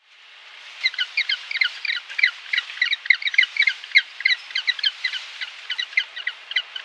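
Birds calling: many short, quick chirps overlapping, several a second, over a steady hiss.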